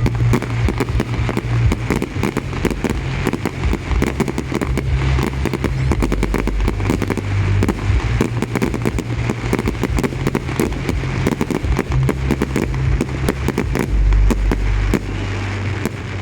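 Fireworks exploding in rapid succession: a dense, continuous crackle of pops and bangs with a low rumble underneath.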